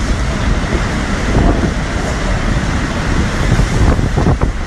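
Hurricane-force wind gusting and buffeting the phone's microphone, a dense, surging noise.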